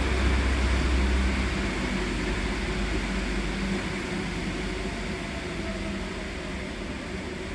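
Rubber-tyred Alstom MP14 metro train slowing down in the station. Its rumble and hum die away gradually, with a faint falling whine about midway.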